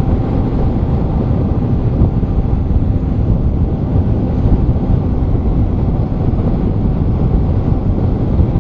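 Wind rush on a helmet-mounted camera microphone mixed with a 2008 Kawasaki ZX-10R's inline-four engine running at a steady cruising speed.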